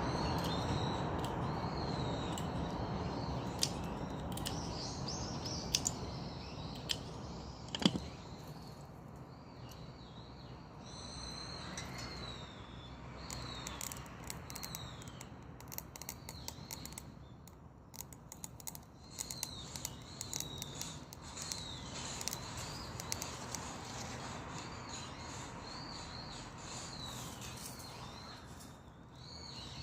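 Dry perilla branches burning in a Solo Stove wood stove, crackling with scattered sharp pops, the loudest about eight seconds in. Birds chirp repeatedly in the background.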